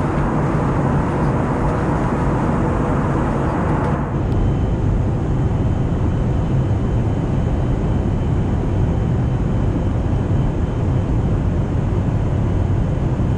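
Steady cabin noise of an Airbus A320neo in descent: engine drone and airflow rush. About four seconds in, the hiss turns duller and a faint high tone stays on.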